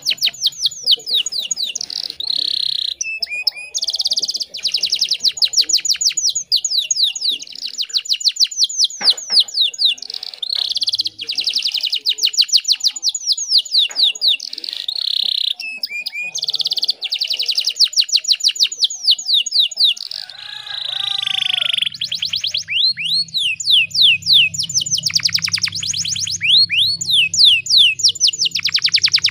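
Domestic canary singing in long rolling trills of rapid, high repeated notes. About two-thirds of the way in, the trills give way to slower sweeping notes over a low steady hum.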